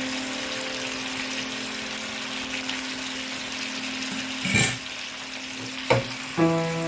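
Chicken curry sizzling as it fries in a pan, with a sharp knock about four and a half seconds in and another about six seconds in. Quiet background music with held notes plays under it.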